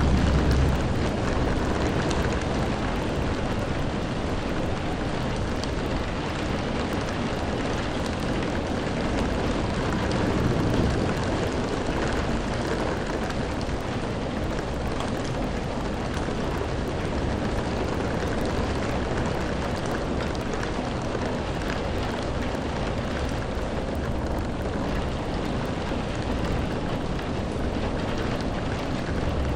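Steady, even rain falling, with a low rumble in the first second.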